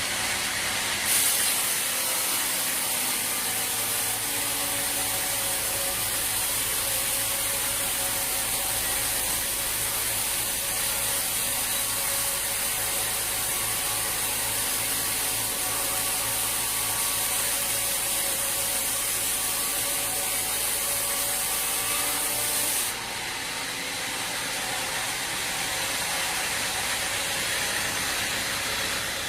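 Sawmill machinery running with a steady mechanical whine and a strong high hiss that starts about a second in and cuts off suddenly near the end.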